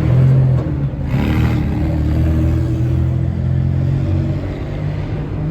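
A car engine running steadily at low revs, with a brief hiss about a second in.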